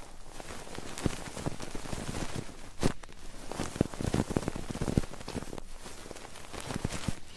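Close rubbing and scratching on the ears of an ASMR binaural microphone: a dense, rain-like crackle with many small clicks and some soft thumps about three to five seconds in.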